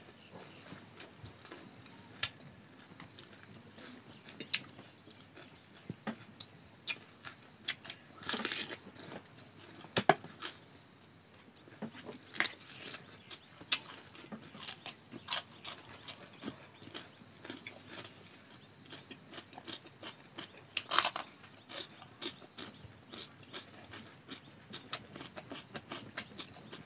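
Close-up eating sounds: crisp crunching bites and chewing of raw cucumber, irregular crunches every second or so, with a few louder bites about 8, 10 and 21 seconds in. A faint steady high-pitched whine sits under it throughout.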